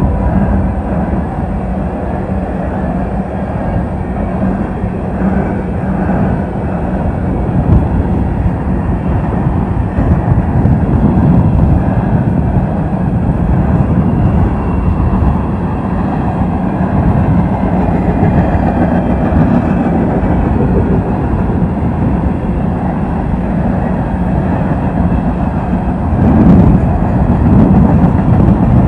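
Freight train of hopper cars rolling past close by: a steady rumble and rattle of steel wheels on the rails, growing louder near the end.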